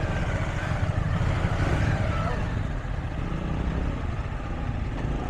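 Motorcycle engine running low and steady, with a constant low rumble.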